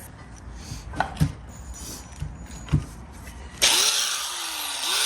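A few light knocks, then about three and a half seconds in an angle grinder starts with a sudden loud rush of noise and a whine that dips and rises as it cuts into the tire on the rim.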